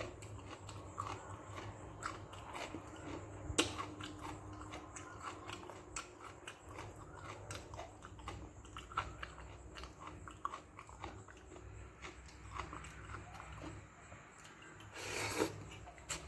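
A person chewing and eating fermented watered rice (pazhaya sadam) with okra stir-fry close to the microphone: a steady run of small wet mouth clicks and smacks, with one sharper click a few seconds in and a louder, longer noisy sound near the end.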